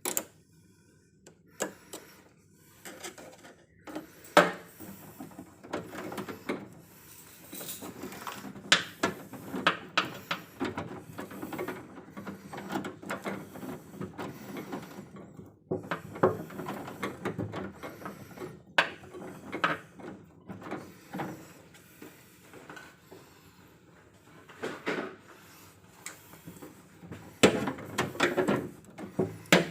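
Irregular clicks, knocks and rattles of hand tools and parts being handled, with a few sharper knocks, the loudest about four seconds in and a busy cluster near the end.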